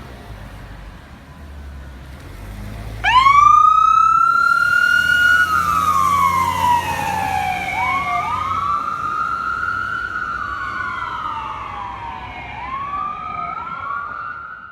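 Emergency vehicle siren on a responding fire or rescue unit, starting suddenly about three seconds in over a low vehicle rumble and sounding a slow rising-and-falling wail, about two and a half cycles, until it cuts off at the end.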